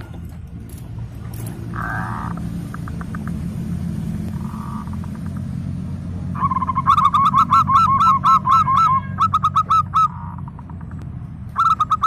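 Zebra dove (perkutut) cooing: a quick run of short repeated staccato notes begins about six seconds in, with a shorter burst near the end, over a steady low rumble. Softer calls come earlier.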